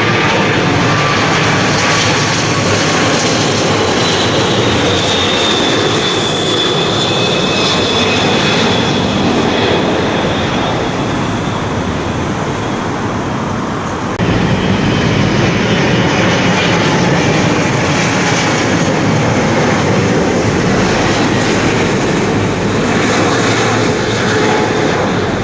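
Jet airliner passing low overhead on final approach, its engines a loud continuous rush with a high whine that slowly falls in pitch as it goes by. The sound changes abruptly about fourteen seconds in, with another aircraft's engine noise carrying on.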